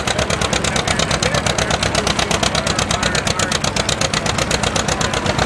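John Deere 720's two-cylinder engine running steadily on LP gas, its exhaust a rapid, evenly spaced string of pops.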